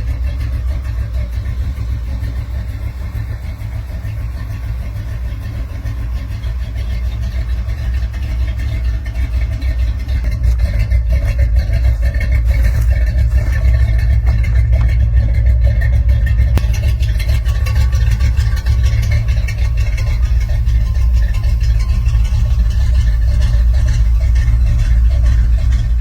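The 1965 Chevrolet Impala's 350 V8 running with a steady low rumble, getting louder about ten seconds in.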